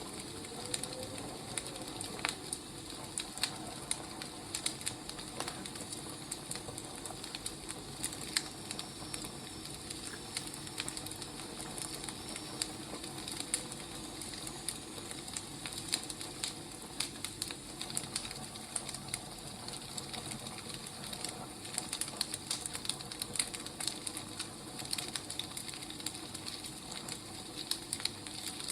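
Wood fire crackling: a steady hiss with frequent, irregular sharp pops and snaps, and a faint rising whistle in the first couple of seconds.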